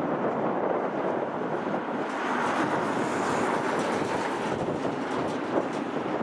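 Steady rushing noise of jet airliner engines, swelling a little with added hiss in the middle.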